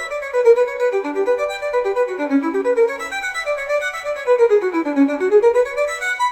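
Solo violin playing a fast Baroque passage of quick running notes, sweeping down and back up in scale-like runs twice.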